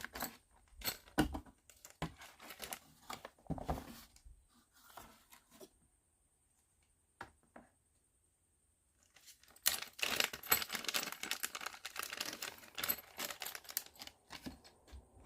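Small plywood kit parts and a metal key handled by hand: scattered clicks and light knocks, a pause, then several seconds of a dense run of rapid crackles, like packaging or parts being rummaged.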